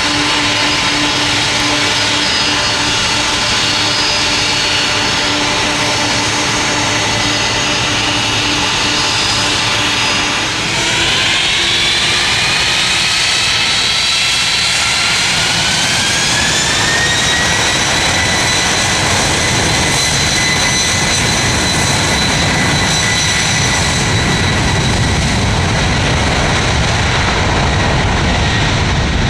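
Boeing 747-400F freighter's four jet engines spooling up for take-off: a whine rises from about ten seconds in and levels off some seven seconds later, with a deep rumble growing underneath as the engines reach take-off thrust.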